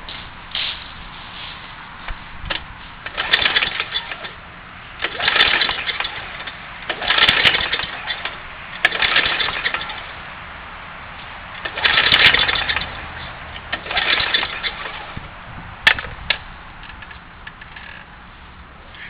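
Small lawn mower engine, converted to run on propane, being pull-started again and again: about six cranking bursts roughly two seconds apart, without settling into a steady run.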